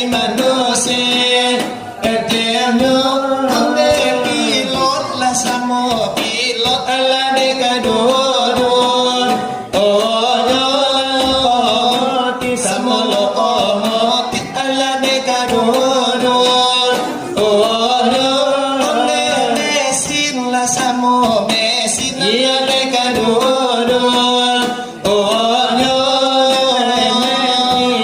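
Selawat dulang: male voices sing devotional verses in a melismatic chant, accompanied by hand strikes on a brass tray (dulang).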